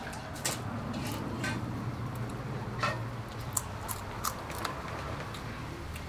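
Crunching as crispy fried salmon fins are chewed: irregular sharp crackles a few times a second.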